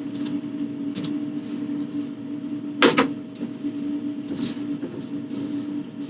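Clatter of items being handled and set down while a fridge is cleared out: a few light clicks and a sharp double knock about three seconds in. A steady hum runs underneath.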